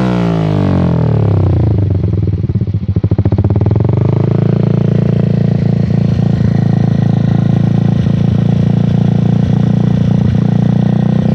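Yamaha New Jupiter MX single-cylinder four-stroke engine running through an aftermarket Akrapovic-copy exhaust. The revs fall away over the first two seconds, then the engine settles into a steady idle for the rest of the time.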